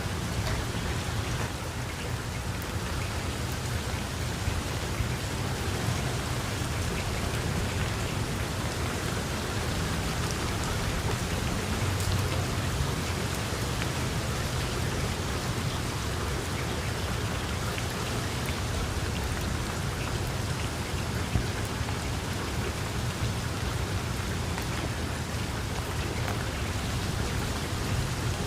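Heavy rain falling steadily, with many drops spattering on hard surfaces and a constant low rumble underneath.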